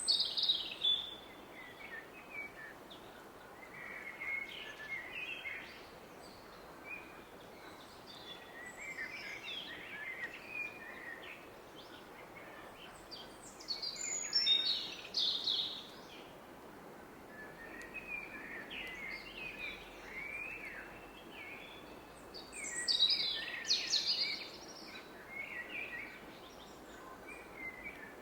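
Several songbirds chirping and trilling in woodland, in loose bursts that come and go, over the steady rush of a distant river.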